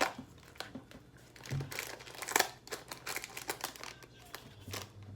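Plastic snack wrapper crinkling, with irregular crackles, as a packet is handled and opened.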